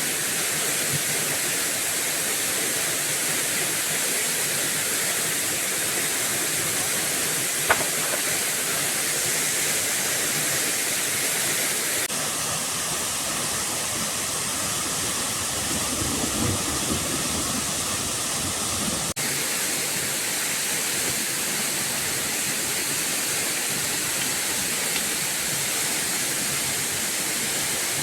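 Steady rushing of falling water, an even roar with no break, broken once by a sharp click about eight seconds in.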